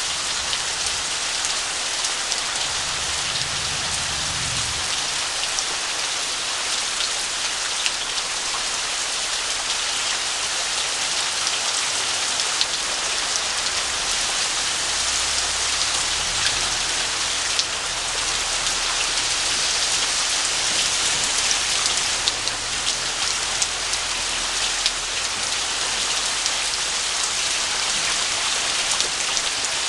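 Heavy rain falling steadily: a dense, even hiss of drops striking surfaces, with many small sharp drop impacts throughout.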